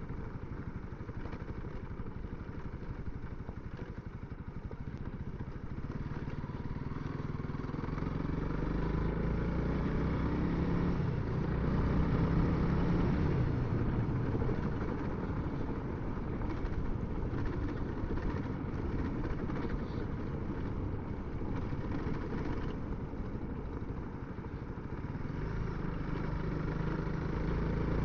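Honda CRF300L's single-cylinder four-stroke engine running under way. It climbs in pitch as the bike speeds up about a third of the way in, holds, eases off a few seconds before the end, then picks up again.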